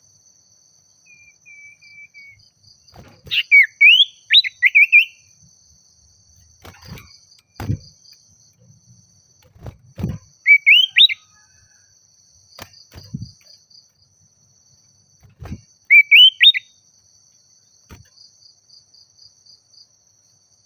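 Common iora (sirtu/cipoh) singing: three short bursts of quick rising whistled notes, several seconds apart. A faint, steady high-pitched insect trill runs behind it, with a few soft knocks in between.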